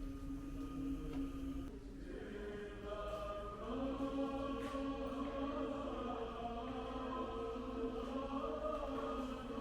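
Choral chanting in long held notes over a steady low drone, with more voices joining about two seconds in.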